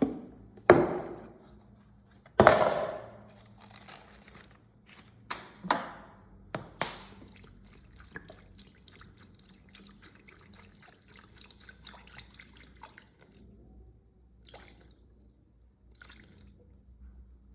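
Wet putty and water in a bucket: several loud splashes and plops in the first seven seconds, then a quieter stretch of crackly wet sounds until about thirteen seconds in.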